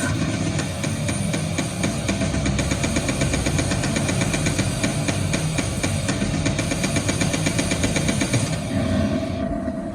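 Harsh electronic noise from a live goregrind/cyber-grind set: a loud, dense wall of distorted noise pulsing at a fast, even rate. Near the end the high end drops out, leaving a low rumble and a held tone.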